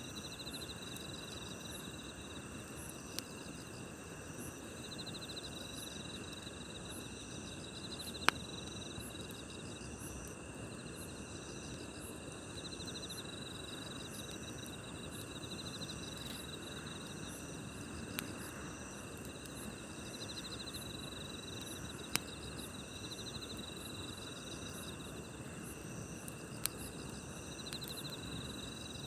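Crickets and other grass insects chirping steadily, some in repeated pulsed trills, over the low hiss of a wood campfire. The fire gives about six sharp pops, the loudest about eight seconds in.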